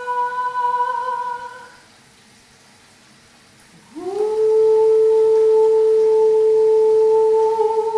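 A woman's voice holding a long, steady sung note, which stops about two seconds in. After a short gap filled only by the faint hiss of running tap water, she slides up into a slightly lower note and holds it steadily, toning along with the water's drone.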